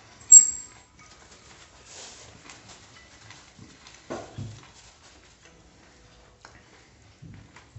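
Close-miked chewing and wet mouth sounds of a man eating a salami sandwich in a bread roll, with a sharp smack about a third of a second in. A paper napkin rustles about four seconds in.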